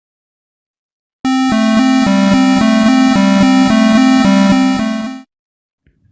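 Electronic two-tone warning siren, the kind fitted to a police tow truck, flipping quickly between a lower and a higher pitch about three or four times a second. It starts about a second in, after silence, runs for about four seconds and cuts off sharply.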